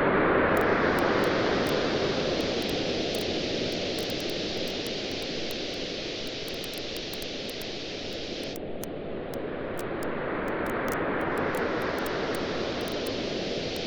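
Ocean waves washing on a beach, loudest at the start, ebbing away and building again near the end, with the quick pops and crackles of a campfire throughout.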